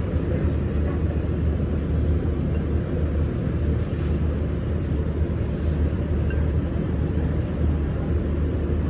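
Steady low droning hum that does not change.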